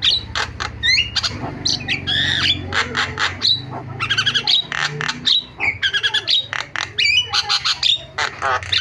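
Javan myna singing a rapid, unbroken medley of harsh squawks, chatter and short upward-slurred whistles, the varied mimicry song of this species.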